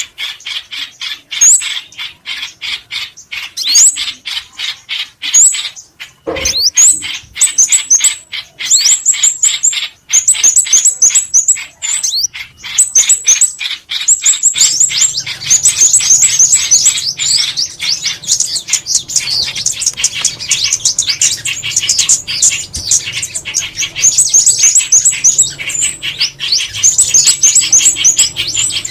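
Recorded songbird calls used as a trapping lure: rapid, high, sharp chirps repeated many times a second, several birds overlapping. From about halfway through a faint low hum runs underneath.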